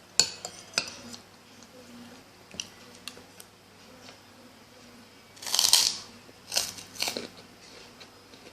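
Close-up bites and chewing of crunchy food: a few sharp crunches near the start, then one loud, longer crunch about five and a half seconds in, followed by two shorter crunches.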